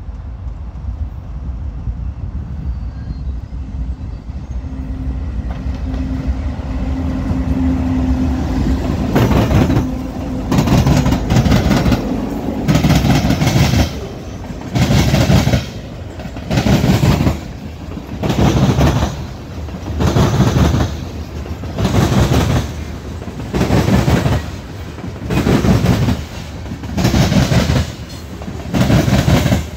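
Diesel locomotives of a freight train rumbling closer and passing, a steady low hum growing louder over the first nine seconds. After that, covered hopper cars roll by, their wheels clattering over a track switch in a loud burst about every two seconds as each car passes.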